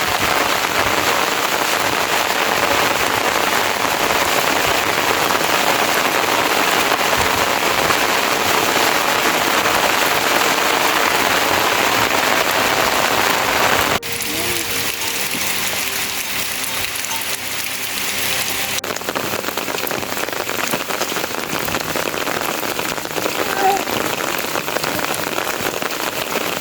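Heavy rain falling steadily. About halfway through it drops suddenly to a quieter, thinner patter, then carries on steadily.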